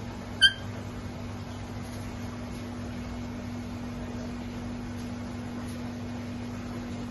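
A single short, sharp, high chirp from a talking African parrot, about half a second in, over a steady low hum.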